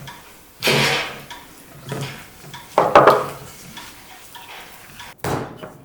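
Kitchenware being handled: a few separate clatters and scrapes of utensils against dishes or pots, the loudest about three seconds in.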